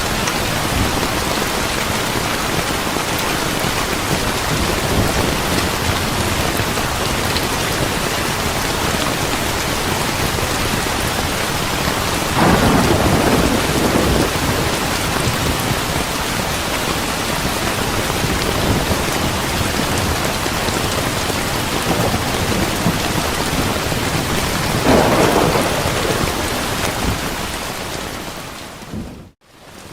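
Steady heavy rain falling, swelling louder twice, then briefly fading almost to silence just before the end.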